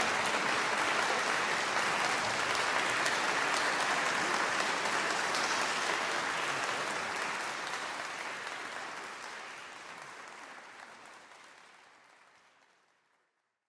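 Concert audience applauding, a dense steady clapping that fades away over the last several seconds to silence.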